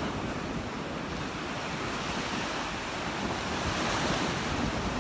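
Surf breaking and washing up the beach, with wind buffeting the microphone. It is a steady rushing that swells a little about four seconds in.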